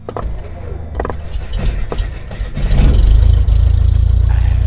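Helicopter engine and rotor noise: a heavy low rumble with a fast, even beat that swells about two and a half seconds in, with a few sharp knocks in the first two seconds.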